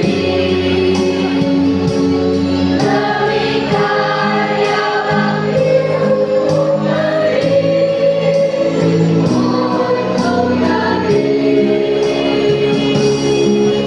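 Junior high school choir singing, holding chords that change every few seconds.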